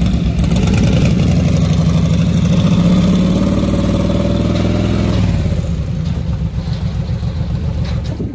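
1931 Ford hot rod's engine running loud through open headers, its pitch rising a little over the first few seconds before it drops away about five seconds in, leaving a lower, rougher engine rumble.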